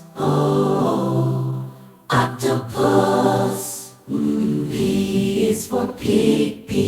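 Children's alphabet phonics song being sung with backing music: held sung notes in three phrases, pausing briefly about two and four seconds in.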